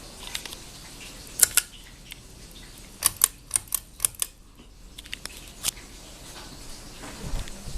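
A run of sharp clicks over a steady low background: two close together, then a quick cluster of about seven, then a few fainter ones. They fit the Hunter ceiling fan's pull-chain switch and chain being worked to change speed.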